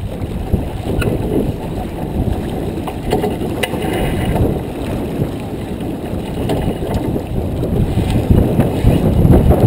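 Wind buffeting the microphone over water rushing past the hull of a J24 sailboat under way, with a few faint knocks.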